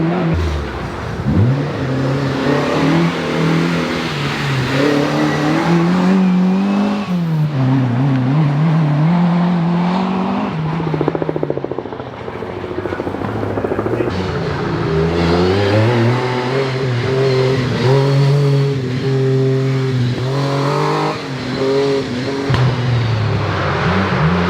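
Rally car engine at full throttle, its note climbing and dropping back again and again as it accelerates, changes gear and lifts for corners.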